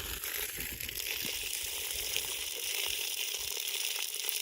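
Water running steadily into a gopher hole, a continuous splashing hiss with small scattered ticks; the hole is not filling up.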